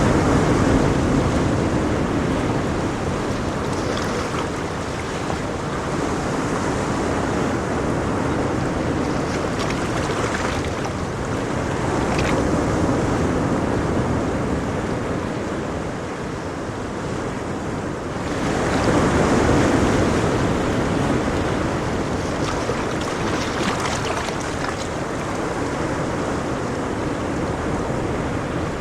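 Ocean waves breaking on a shore, a steady wash of surf that swells and recedes, the biggest surge a little past the middle.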